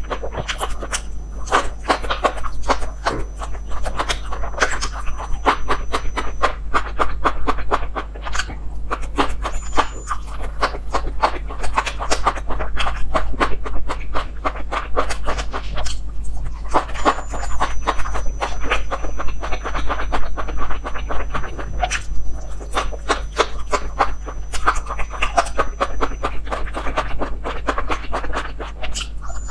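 Close-miked chewing and lip smacking of a person eating meat rolls wrapped around enoki mushrooms: dense, rapid wet clicks, with a steady low hum underneath.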